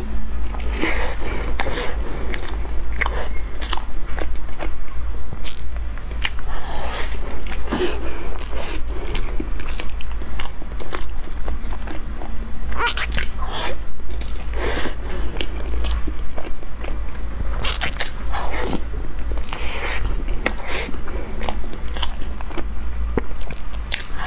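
Close-miked eating of a soft, cream-filled pork floss bun: bites and chewing, with many irregular small mouth clicks.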